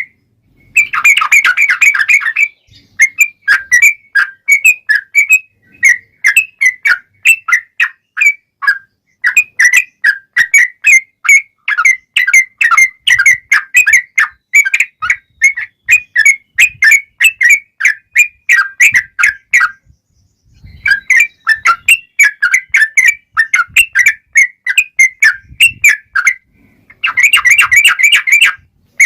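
Yellow-vented bulbul (trucukan) singing a long run of quick bubbly chirps, with dense rapid trills near the start and near the end and a brief pause about 20 seconds in.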